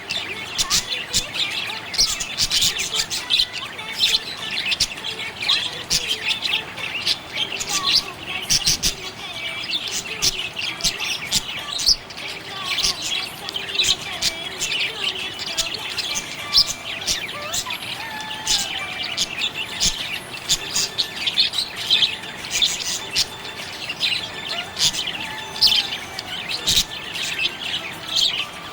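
Budgerigars chirping: a steady, dense stream of quick, high chirps overlapping one another.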